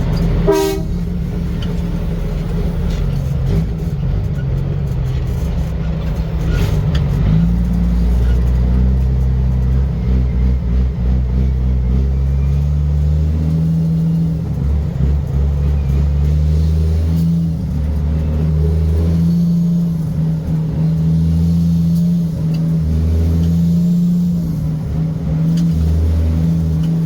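Large trucks running, with steady low tones that cut in and out every second or two in the second half.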